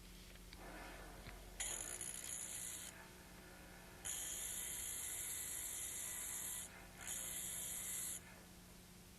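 Steel Cryer elevator being honed: three hissing, scraping strokes of the bevel against the hone, the second one the longest, over a faint steady hum.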